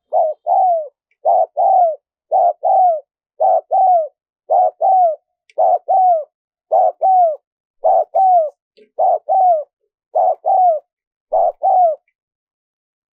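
Spotted dove cooing: a two-note coo, a short note then a longer one that falls away, repeated about once a second some eleven times and stopping about twelve seconds in.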